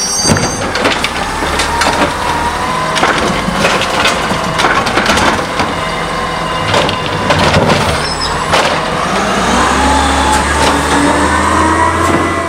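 CNG-powered automated side-loader garbage truck at work, with repeated clanks and bangs over the running engine. Near the end the engine's pitch rises steadily.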